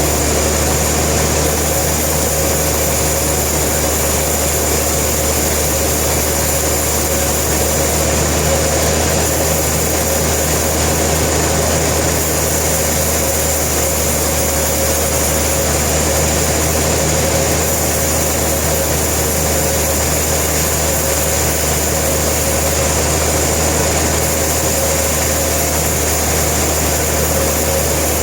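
Sawmill machinery running steadily with a constant low hum and a few fixed higher tones. The sound neither rises nor falls.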